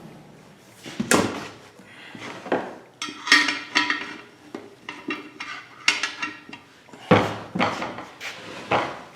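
Irregular metal clanks and knocks, a dozen or so at uneven intervals, as a steel beam, a wooden lever and a wire wheel are handled and set in place for breaking a tyre's bead.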